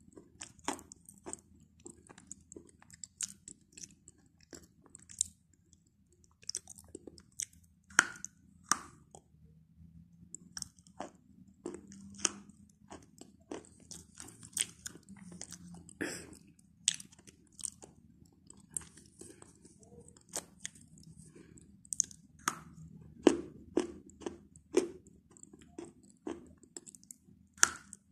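A person chewing chalk: irregular sharp crunches and clicks as the chalk breaks between the teeth, with softer mushy chewing of the chalk paste in between. The crunches come thicker near the end.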